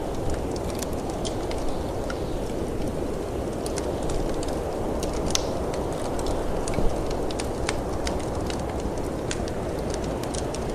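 Wood fire crackling in a fireplace, with irregular sharp pops and snaps, over a steady low rush of wind from a snowstorm.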